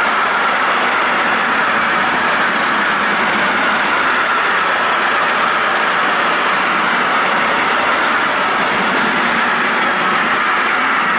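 A train running past close by: a loud, steady rush of wheels on rails.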